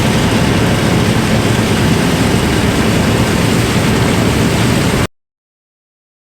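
John Deere 9500 combine running with the header and separator engaged, a loud steady rushing noise without a clear pitch, which cuts off abruptly about five seconds in.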